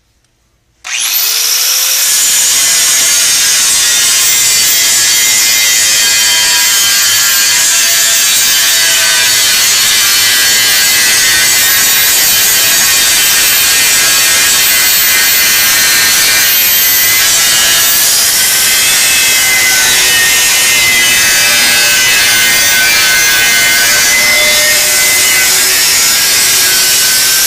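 Angle grinder with a Rex Cut aluminium grinding wheel spinning up about a second in, then grinding down a weld bead, loud and steady.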